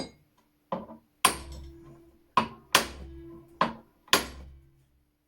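Six sharp hammer blows on metal, each with a short ring, struck to free a rust-seized screw on an antique flintlock shotgun's action.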